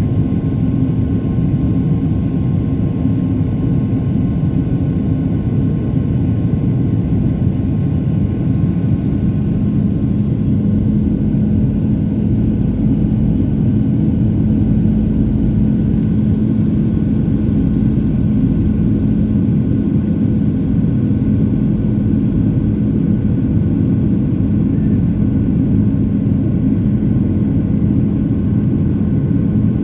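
Aircraft engine drone heard from inside the cabin: a steady, loud, low rumble with a few constant tones. A low tone grows stronger about nine seconds in.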